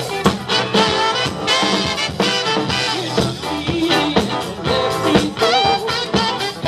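Upbeat swing-style band music with a steady beat.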